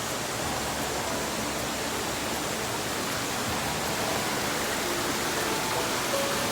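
Waterfall pouring into a pool, a steady, even rush of water.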